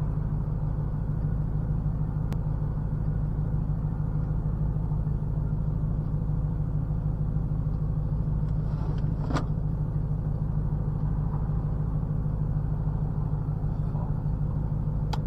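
BMW E92 M3's V8 engine with an aftermarket IPE exhaust running steadily with a low, even drone and no revving. A couple of faint clicks sound over it.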